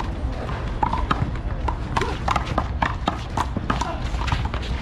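A ball-game rally on a hard indoor court: a quick, irregular run of knocks from ball hits, bounces and footsteps, with short shoe squeaks and faint voices in the background.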